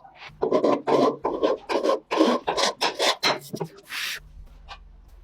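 Rasping back-and-forth strokes of a hand tool, about ten in a row at roughly three a second, like filing or scrubbing a rusty part, stopping about four seconds in.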